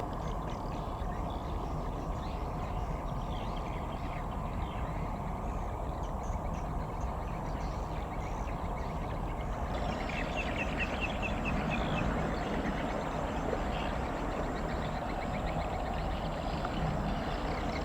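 Steady low rumble and wash of a large container ship passing close by, with faint short chirps about ten seconds in.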